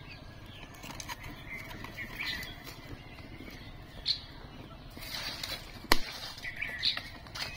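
Birds chirping on and off, short rising and falling calls, with a few light clicks and one sharp click a little before six seconds in.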